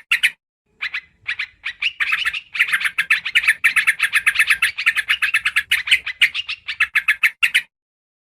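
Yellow-vented bulbul (trucukan) calling, played as a bird-lure recording: a quick chattering series of short bubbly notes, sparse at first, then a dense run through most of the clip that stops shortly before the end.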